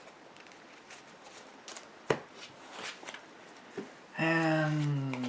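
Trading cards being handled and laid on a table: scattered light clicks and taps, with one sharper tap about two seconds in. Near the end a voice lets out a long, falling "ooh".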